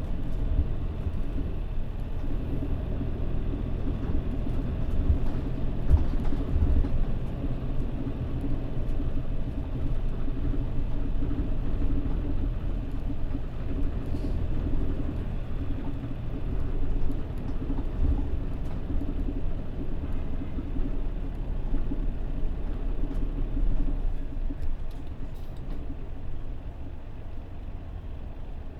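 Mitsubishi Fuso Aero Star city bus (PJ-MP35JM) under way, heard from inside the cabin: a steady engine hum and road rumble with a few rattles. The running noise drops near the end as the bus slows for its stop.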